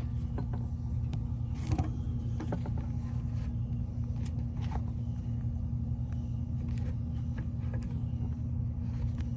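Steady low hum of an idling engine, with scattered light clicks and taps of hand tools on metal.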